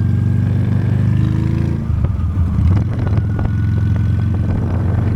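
Honda Steed V-twin motorcycle engine running steadily under way, with a few short knocks about two to three seconds in.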